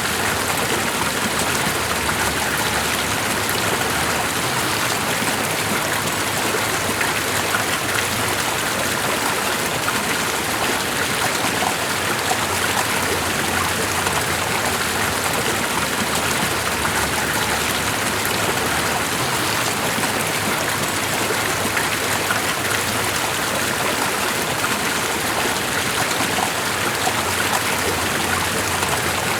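Steady rushing water with a fine, dense patter, unchanging throughout.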